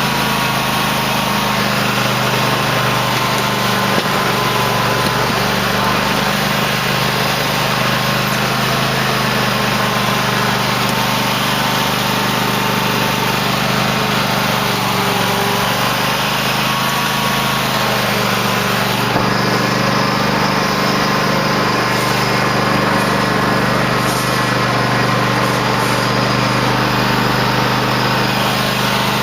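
Cub Cadet LT1050 lawn tractor engine running steadily while the tractor plows snow, its pitch dipping and rising a little.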